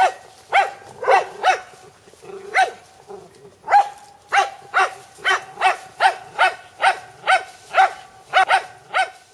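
A dog barking over and over, short sharp barks coming about twice a second, with a brief pause about three seconds in.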